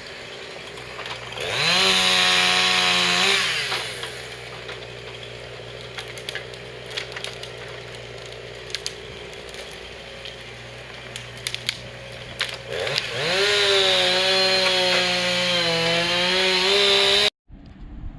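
Chainsaw idling, then revved up to full speed twice: a short burst about two seconds in and a longer run of about four seconds near the end, with scattered light clicks between. The sound cuts off abruptly near the end.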